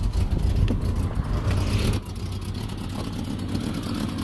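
1989 Jeep Cherokee XJ's 4.6-litre Renix inline-six idling steadily shortly after start-up. Its low rumble drops in level about two seconds in.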